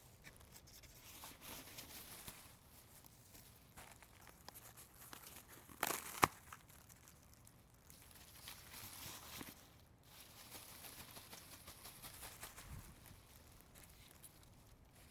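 A piece of rigid packing litter being broken apart by hand: faint crackling and tearing throughout, with one loud crack and snap about six seconds in.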